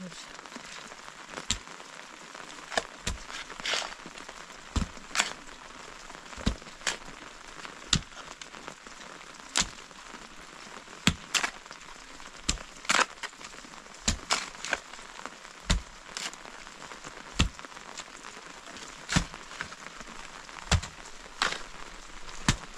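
Sharp single knocks, roughly one every second or two and now and then two in quick succession, over a steady hiss.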